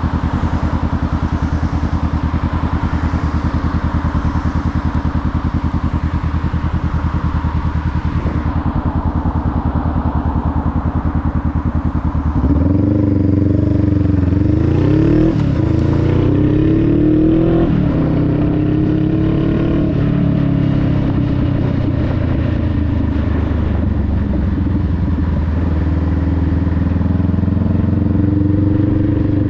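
Honda Rebel 500's parallel-twin engine running steadily under way, with wind and road noise. About twelve seconds in it gets louder and its pitch rises and falls several times as the rider works the throttle and gears, then it settles into a steady run again.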